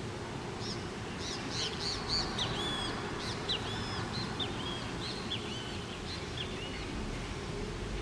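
A bird calling: a rapid run of short, arched high chirps lasting about five seconds, over a steady low background hum.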